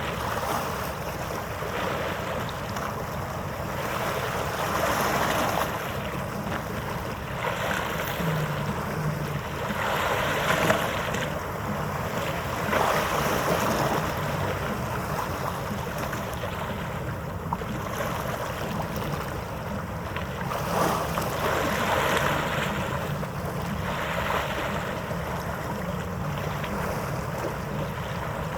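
Harbour-side wind and water noise, swelling in gusts every few seconds over a steady low rumble.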